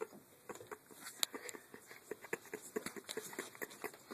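Soft, irregular clicks and smacks, several a second, from someone chewing a mouthful of dry flour that has turned pasty, with one sharper click a little over a second in.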